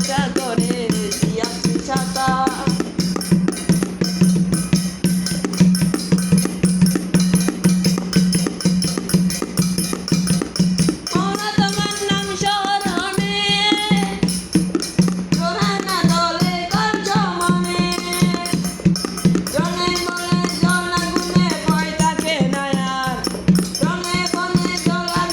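Instrumental passage of a Bengali folk devotional song: a quick, even rattle-and-tambourine style beat over a steady low drone, with a melody line coming in short phrases from about halfway through.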